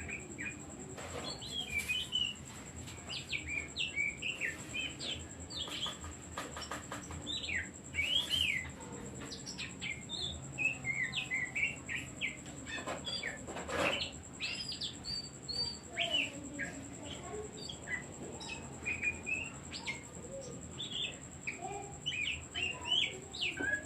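Oriental magpie-robin (kacer) singing a fast, continuous run of short whistled and chirped notes, with a few sharp knocks here and there.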